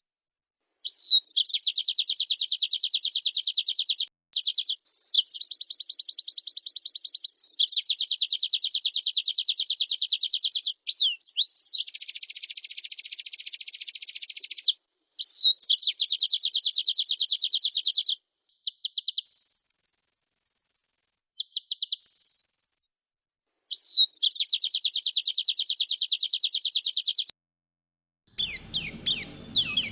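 White-eye (pleci) singing a loud, fast trilling song in phrases of a few seconds, separated by short pauses. The song is mixed with short very high, buzzy notes in the 'full isian' style of a mimicking pleci. Near the end a rougher, more varied bird calling begins.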